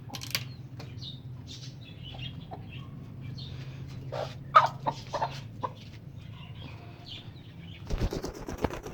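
Birds in cages giving scattered short calls over a steady low hum. Near the end comes a flurry of wing-flapping.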